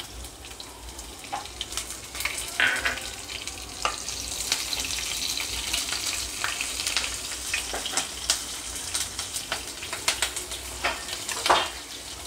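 Green chillies sizzling in hot oil with garlic and ginger in a nonstick kadhai, with many small pops, while a spatula stirs them through the pan. The sizzle grows louder about two seconds in.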